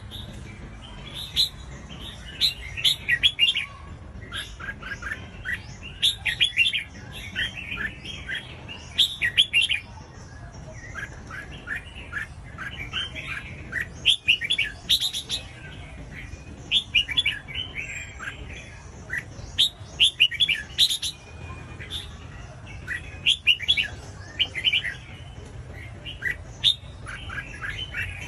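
Red-whiskered bulbul singing: short, quick phrases of clear notes, repeated every second or two, over a faint low hum.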